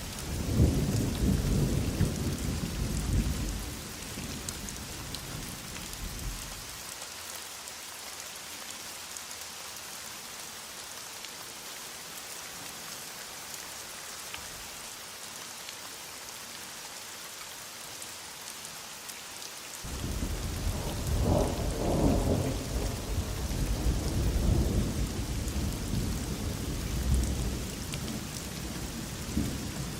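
Steady heavy rain hiss with thunder rumbling, once in the first few seconds and again from about two-thirds of the way through, the second roll starting suddenly.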